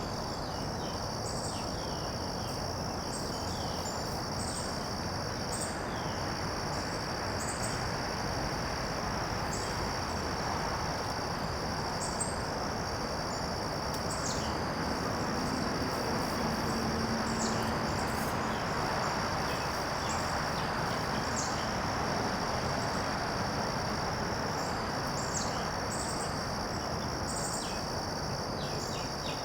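Insects droning steadily at a high pitch, with short bird chirps repeating throughout over a steady background hiss.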